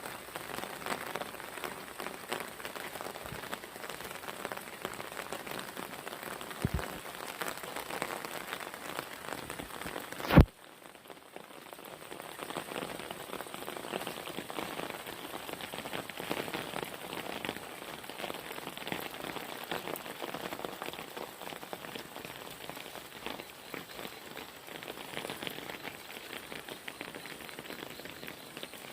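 Heavy rain falling steadily, with many individual drops pattering. About a third of the way in there is one loud sharp click, after which the rain sound briefly drops away and comes back.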